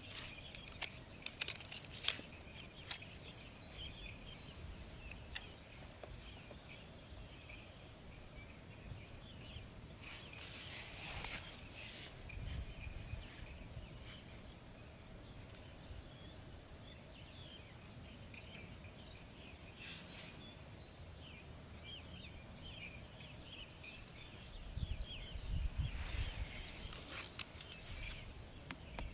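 Quiet outdoor background with faint high chirping throughout, a few sharp clicks in the first seconds, a rustling burst near the middle and a low rumble with clicks near the end.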